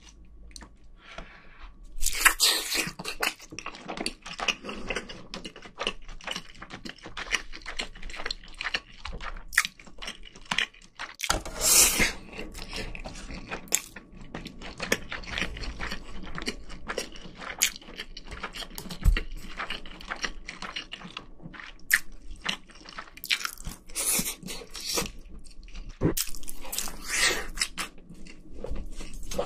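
Close-miked chewing and biting, mouth sounds of eating rice and Spam: a dense run of small wet clicks and crunches, with several louder bursts about two, twelve and twenty-five seconds in.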